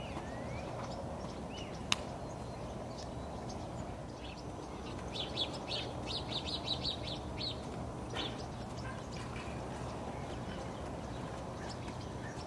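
Small birds chirping over a steady outdoor background hiss, with a quick run of about eight high chirps in the middle. A single sharp click comes about two seconds in.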